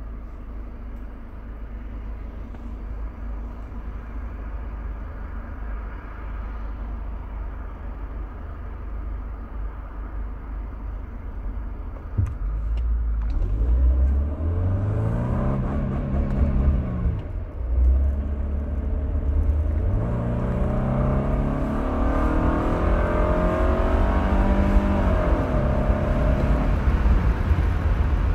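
Mercedes-Benz 220CE's four-cylinder engine, first a steady low rumble at light load. About halfway through it pulls harder with revs climbing, drops in pitch at a gear change, then climbs again.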